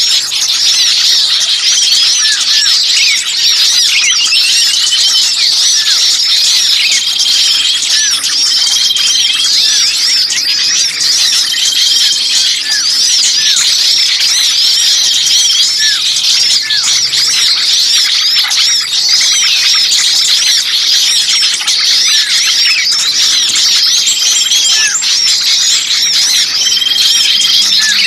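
Dense, noisy chorus of many small songbirds chirping and calling at once: rapid high chirps overlapping with short whistled notes that repeat every few seconds. This is a bird-trapping lure recording of agitated, screeching small birds.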